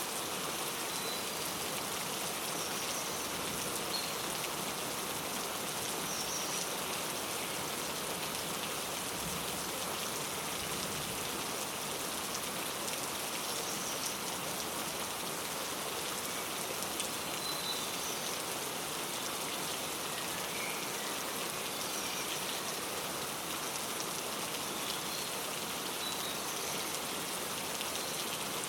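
Steady rain falling, with faint short bird chirps every few seconds over it.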